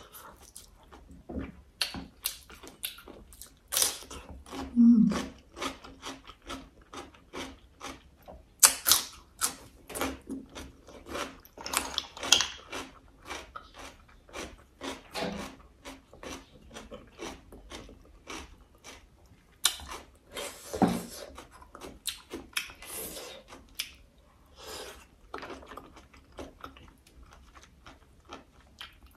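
Close-miked eating of braised crab and boiled snails: chewing and smacking made up of a dense run of sharp wet clicks, with a few louder bursts.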